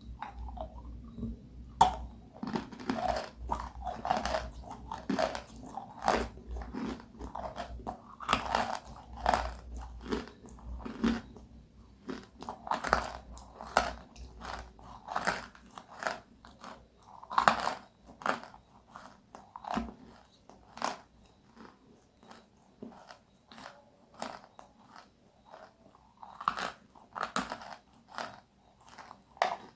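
Biting and chewing crispy, crunchy food: an irregular run of sharp crunches, several a second, some much louder than others.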